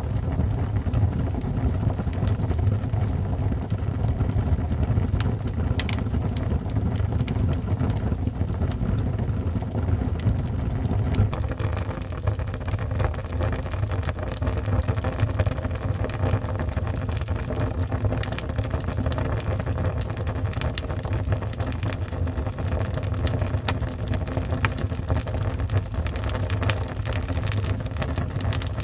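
Wood fire burning in a fireplace: a steady low rumble of flames with scattered crackles and pops, which grow busier from about eleven seconds in.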